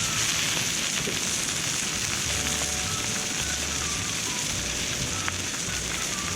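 Steak sizzling as it grills over a campfire: a steady, even hiss. A few short, faint chirps sound through it.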